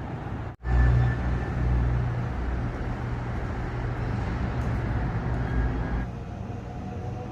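Steady low rumble of road and engine noise inside a moving car, cut off briefly about half a second in.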